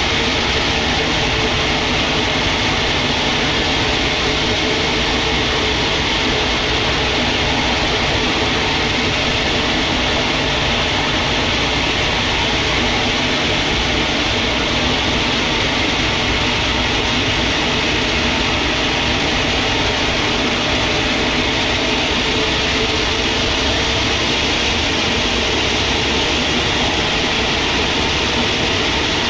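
Sawmill machinery running steadily, a loud, even mechanical noise that does not change.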